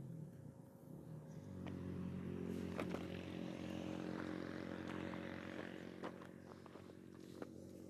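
A steady low hum like a running engine, with a lower tone joining about a second in, and a few light clicks over it.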